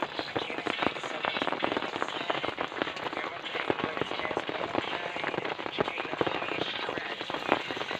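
Heavy rain: a dense, irregular patter of drops striking close to the microphone, steady throughout.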